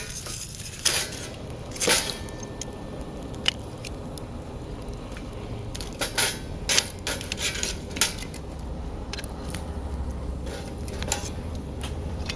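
Hardwood fire burning in a homemade sheet-metal wood stove: irregular sharp pops and clicks, a cluster of them about six to seven seconds in, with a low rumble that swells from about eight seconds in.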